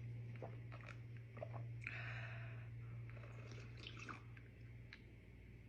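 Faint close-up mouth sounds of eating and drinking: small wet clicks and smacks, with a short breathy hiss about two seconds in.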